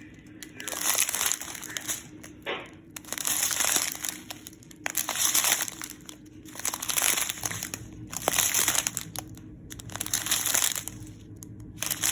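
Small plastic bags of diamond-painting drills crinkling as they are handled, in repeated bursts every second or two.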